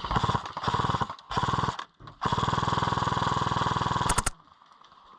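Airsoft light machine gun firing fully automatic, with the motor and gearbox cycling at a fast, even rate. It fires three short bursts, then a longer one of about two seconds, followed by a few sharp clicks.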